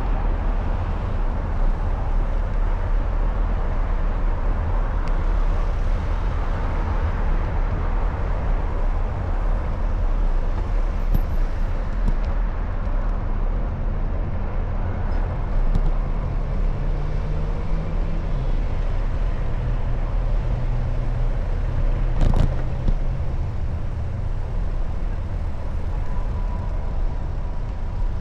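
Steady rush of wind and road noise from a moving bicycle, with motor traffic going by. A vehicle's engine hum rises and passes partway through, and there is a single sharp click a few seconds later.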